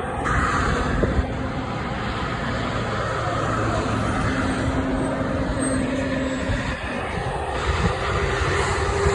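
Road traffic: vehicle engines running with a steady rush of noise, a low engine hum holding steady through the middle.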